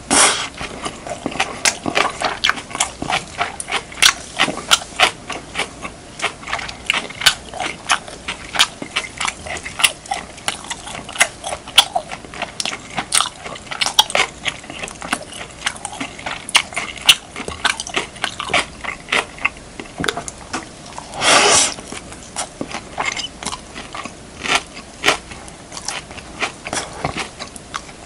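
Close-miked chewing and mouth sounds of eating beef, kimchi and rice: a steady run of irregular wet smacks and clicks, with one longer, louder noisy burst about three quarters of the way through.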